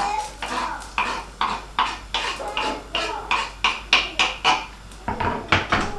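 A quick, even run of sharp taps or clinks, about three a second, like hard objects striking each other.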